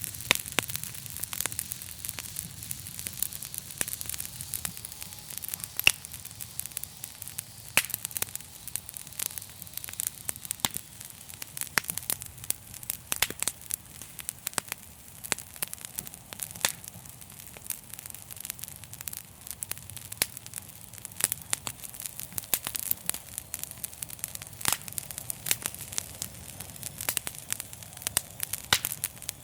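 Wood fire crackling in a fireplace: a dense, continuous stream of small crackles with frequent sharper pops.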